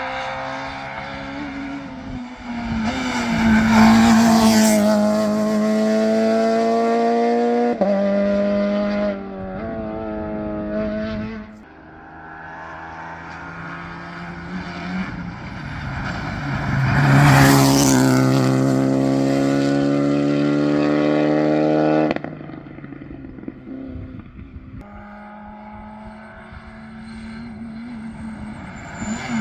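Modern rally cars at full throttle on a stage, passing close one after another. Each engine rises in pitch with quick gear changes and drops as the car goes by.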